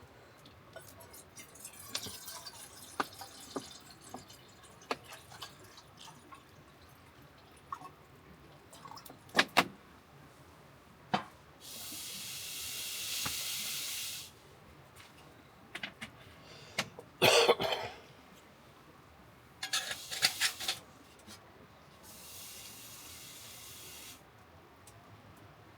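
Scattered clicks and knocks of things being handled, with a steady rushing hiss for about two seconds near the middle and a fainter one near the end.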